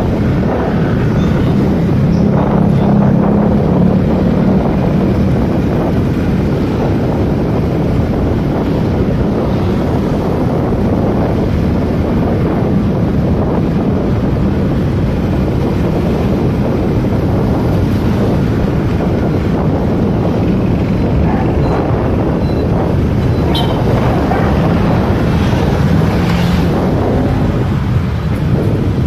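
Motorcycle engine running while being ridden, its note shifting slightly with the throttle, under heavy wind noise on the microphone.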